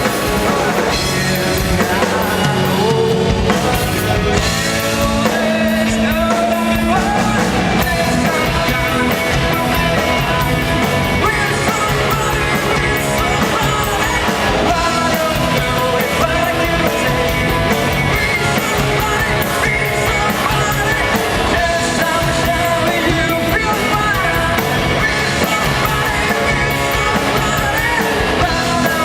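Rock band playing a song live, electric guitars and drums with a singer, loud and steady throughout.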